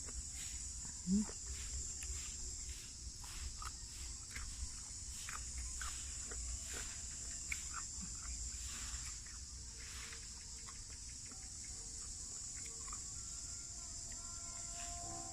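Steady high-pitched buzz of insects, like a cricket chorus, with scattered short chirps and clicks over it. A brief low rising sound stands out about a second in.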